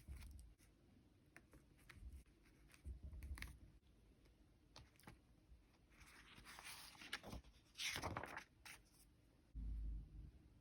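Faint desk work on a paper bullet journal: scattered light taps and scratches, two longer scratchy rasps about six and eight seconds in, and a few soft low bumps.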